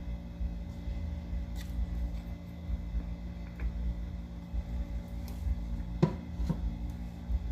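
Quiet handling of a yogurt container and cups: a few faint clicks and two soft knocks about six seconds in, over a steady low hum.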